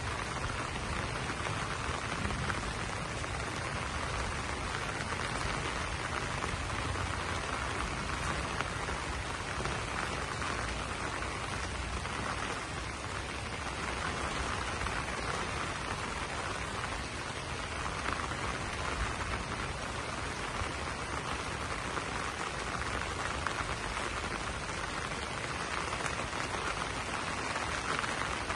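Steady rain falling on broad banana leaves, a dense, even spray of drops with no break.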